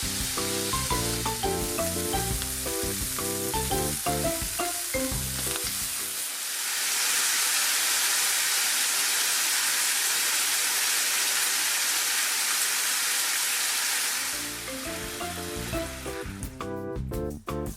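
Food sizzling in hot oil in a frying pan, a steady hiss. Background music with a melody plays over it for the first six seconds, drops out, and comes back a few seconds before the end.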